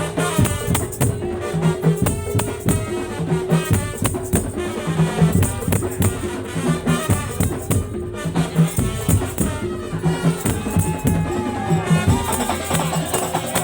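Madurese tong-tong (daul) ensemble playing: wooden slit drums and drums in a dense, fast, repeating rhythm with jingling rattle-like percussion over a held melody line.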